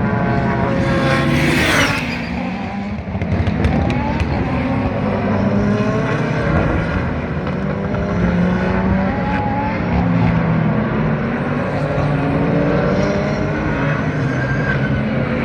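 SUPER GT race cars running at speed close by, several engines overlapping and rising and falling in pitch as they shift and brake. One car passes loudly about a second and a half in, and a few sharp pops follow shortly after.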